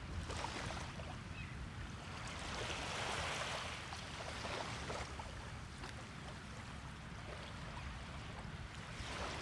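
Small waves washing onto a beach, one wash swelling and fading about three seconds in, with fizzing and trickling as the water runs back.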